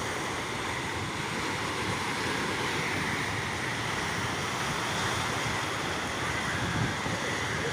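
Steady rush of wind and sea water, with wind on the microphone.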